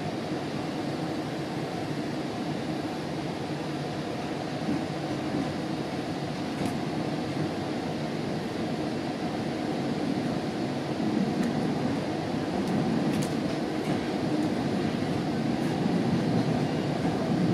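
GO Transit commuter train coach running along the track, heard from inside the car as a steady rumble with a few faint light clicks; it grows slightly louder about ten seconds in.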